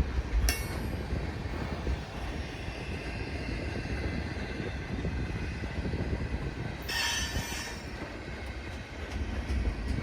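Freight train rolling past with a steady low rumble of wheels on rail. Its wheels squeal briefly and high-pitched about seven seconds in.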